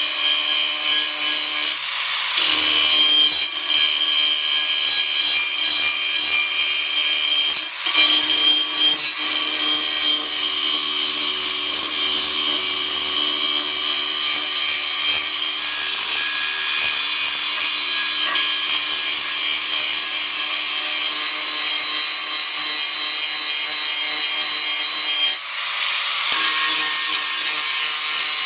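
Power tool working steel plate, its motor whining steadily over a scraping, sawing sound, with short breaks about two, eight and twenty-five seconds in.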